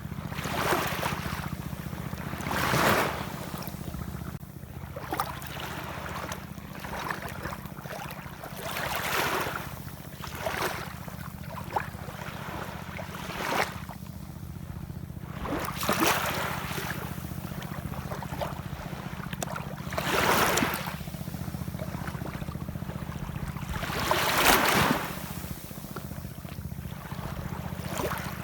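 Ocean waves washing ashore, the surf swelling into a louder hiss every few seconds and falling back, over a steady low rumble.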